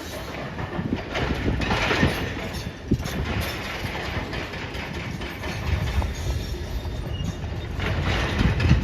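Heavy demolition machine working: steady engine noise with clanking and scattered knocks of metal, the loudest knock near the end.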